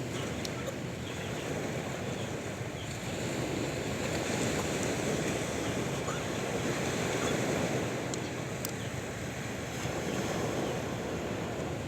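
Sea waves surging on a shore: a steady rush of surf that swells louder in the middle and eases off again, with wind.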